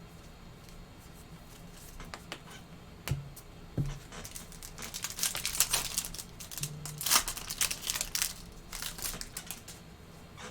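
Foil wrapper of a trading card pack being torn open and crinkled, after a couple of sharp clicks; the crackling is densest in the middle and dies down near the end.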